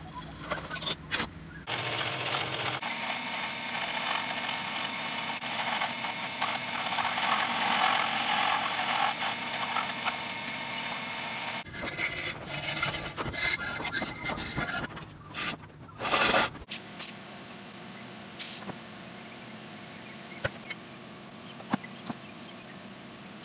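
A steady abrasive rubbing noise for about ten seconds that cuts off suddenly, followed by several shorter scrapes and a few knocks.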